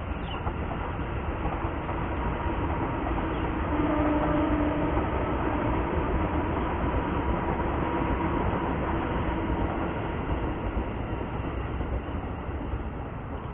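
A train passing: a steady rumble with faint humming tones, loudest about four seconds in and slowly fading toward the end.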